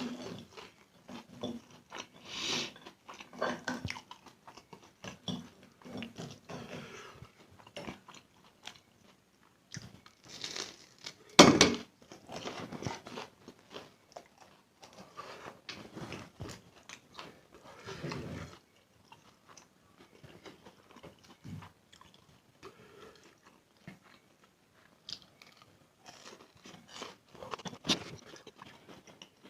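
Close-miked eating of instant noodles: irregular chewing, biting and wet mouth smacks, with one loud burst about eleven seconds in.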